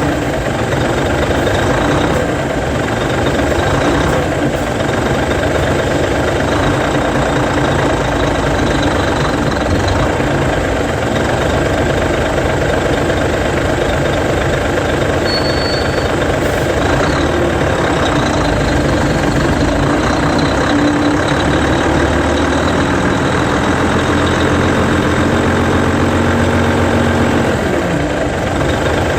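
Hino Selega tour bus's E13C inline-six diesel running as the bus creeps slowly, with a brief high-pitched brake squeal about halfway through as it pulls up, then the engine idling steadily.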